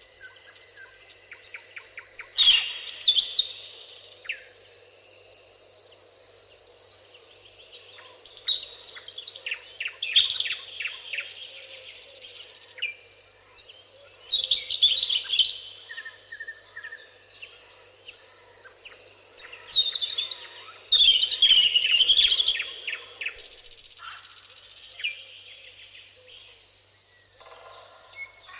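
Several wild birds singing: bursts of rapid chirps and trilled phrases return every few seconds. Beneath them run a steady high-pitched tone and a low, even rushing noise.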